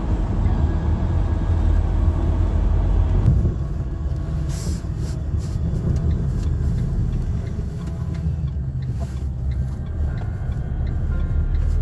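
Steady low road rumble of a shuttle van, heard from inside the cabin while it drives; the higher hiss drops a little about three seconds in.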